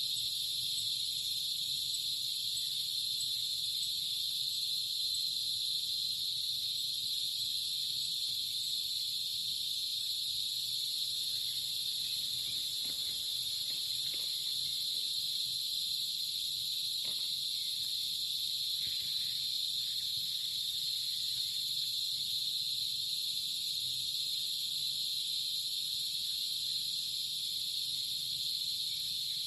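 Steady, unbroken high-pitched chorus of insects, cricket-like, holding one even pitch without pause.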